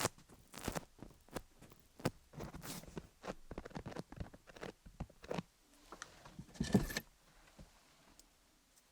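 A fluffy tool brushing and rubbing over a rhinestone-covered dummy-head microphone, close up: irregular soft swishes and crackling rustles. The loudest rustle comes about seven seconds in, and the sound grows quieter after it.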